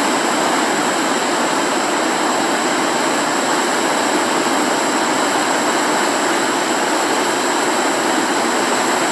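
Steady, loud rushing roar of fast-flowing floodwater, unbroken throughout.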